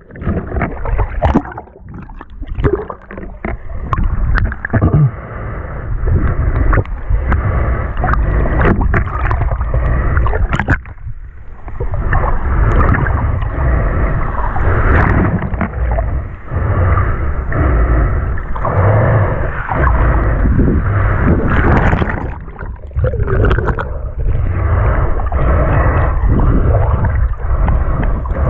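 Seawater sloshing and gurgling in the shallows, loud and uneven, easing briefly twice.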